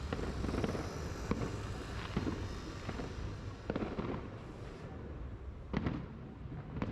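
Fireworks display: a rapid run of aerial shell bangs and crackling pops over a low rumble, thinning to a couple of separate bangs near the end.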